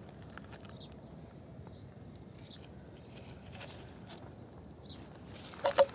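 Faint outdoor background with scattered light taps and rustles, then two sharp clicks in quick succession near the end.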